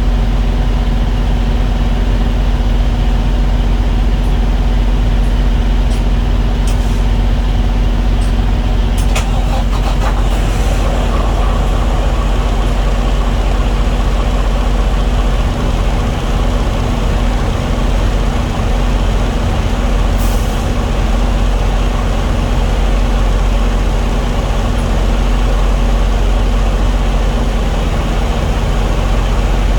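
Truck diesel engine running steadily at idle, with a constant low hum. A few clicks and short hisses come partway through.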